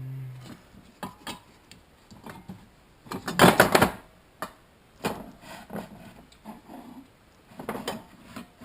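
Hard objects, tools and parts, clicking and knocking as they are rummaged through and handled, with a dense burst of clattering about three and a half seconds in that is the loudest part.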